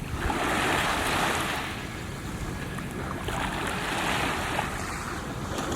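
Harbour water washing with wind rumbling on the microphone: a steady rush that swells twice, near the start and again after about three seconds.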